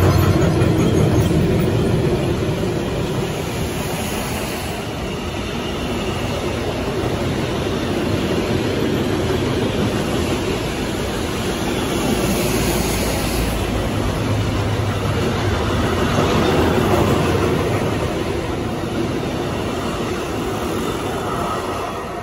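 Freight train of container wagons hauled by an electric locomotive rolling past at speed: a steady rumble of wheels on rail that fades near the end as the last wagons go by.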